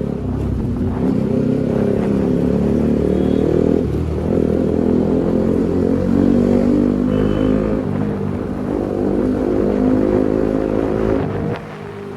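Motorcycle engine and exhaust running loud for a sound check, its pitch wavering up and down with the throttle, then dropping back about eleven and a half seconds in.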